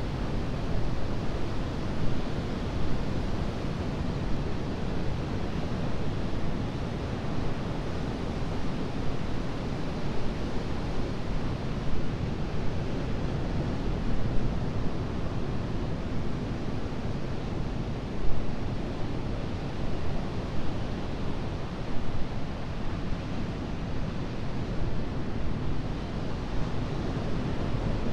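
Atlantic ocean surf: a continuous wash of breaking waves, a steady rushing noise that swells a little now and then.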